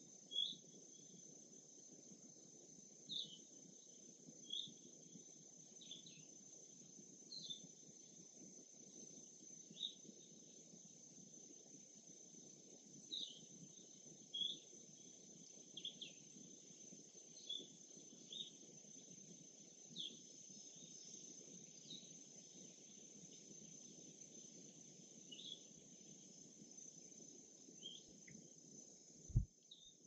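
Faint lakeside ambience: short bird chirps every second or two over a steady high insect drone and a soft low rush, with a dull thump near the end.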